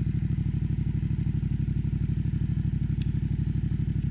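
Yamaha XSR700's 689 cc parallel-twin engine idling steadily through an aftermarket SC Project exhaust, with an even, unchanging exhaust beat.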